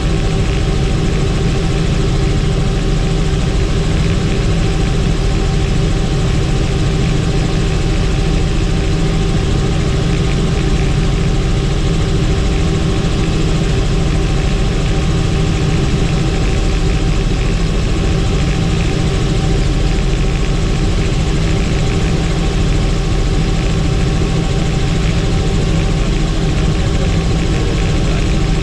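Helicopter in flight: engine and rotor making a loud, steady drone with several held tones, unchanging.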